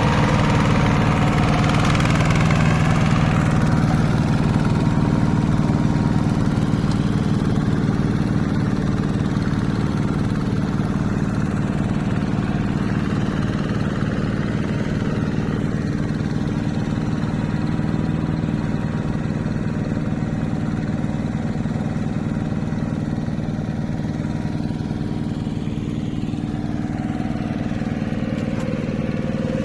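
Hand tractor's engine running steadily with an even firing beat, a little louder and brighter for the first few seconds, then easing off slightly.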